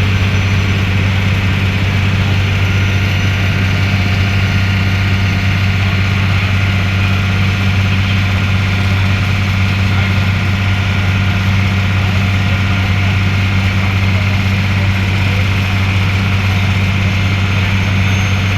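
Passenger ferry's engine running steadily, a loud, even low drone that does not change.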